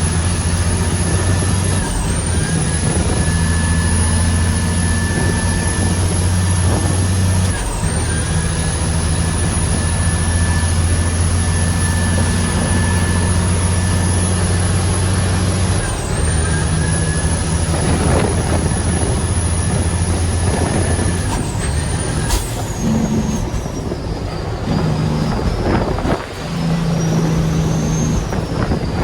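Heavy diesel truck engine pulling under load, with a high turbo whistle that dips briefly four times as the gears are shifted. Near the end the engine eases off and the whistle falls away, then slowly climbs again.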